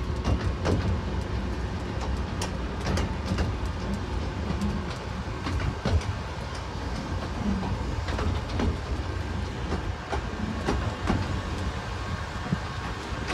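North Bay Railway miniature train running along the track, heard from on board: a steady low rumble with scattered, uneven clicks and knocks from the wheels on the rails.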